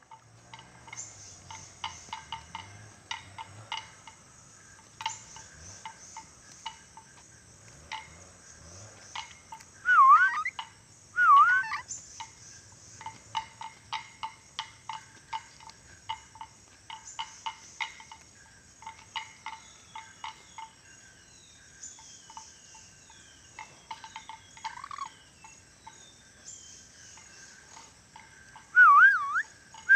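Ornate lorikeet calling: a long run of short, sharp chirps and clicks, with a few falling squeaks partway through. Loud wavering whistles break in twice about ten seconds in and again near the end.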